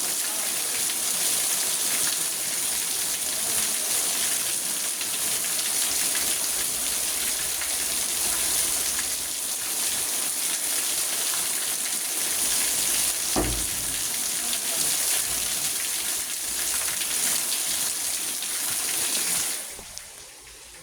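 Rain falling on a car, heard from inside the cabin: a dense, steady patter. A single dull thump comes about thirteen seconds in, and the rain noise drops sharply just before the end.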